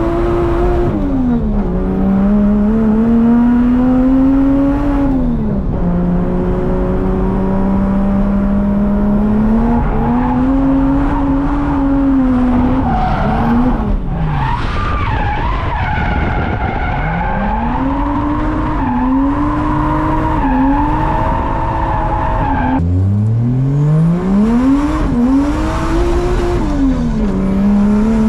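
Drift car engine revving hard, its pitch climbing and dropping again and again, with tyres squealing through slides, most strongly about halfway through.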